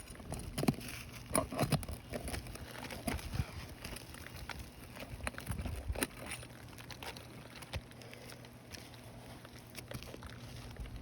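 Flat bar prying and scraping under old asphalt shingles: irregular knocks, taps and crackling, with a few sharper knocks in the first couple of seconds and again about halfway.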